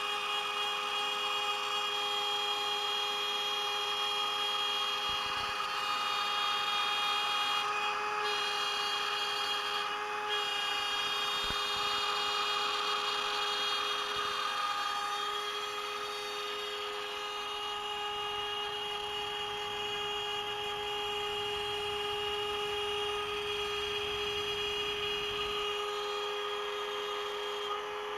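CNC router spindle running with a steady high whine of several constant pitches, a 3.175 mm end mill cutting 18 mm beech plywood with a continuous hiss.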